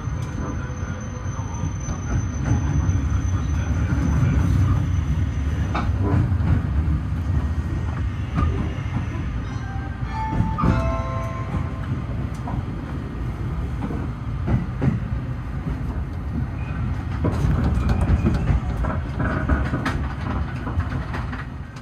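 Running noise inside a 285-series Sunrise Express sleeper train rolling slowly into a station: a steady low rumble from the running gear, with scattered clicks of the wheels over rail joints and points, and a brief squeal about ten seconds in.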